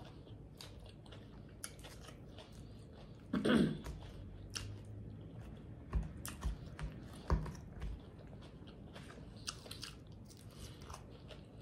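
Close-miked chewing of Caesar salad: crisp romaine crunching with many small wet mouth clicks and smacks. There is a short vocal sound about three and a half seconds in, and a few soft low knocks a little later.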